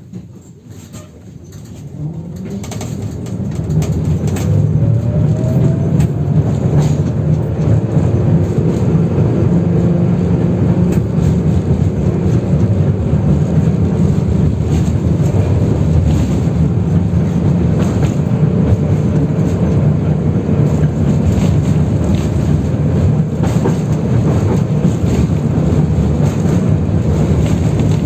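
71-608KM tram pulling away: a whine from the traction motors rises in pitch over the first few seconds as the car speeds up, then a steady running rumble with clicking of the wheels over rail joints.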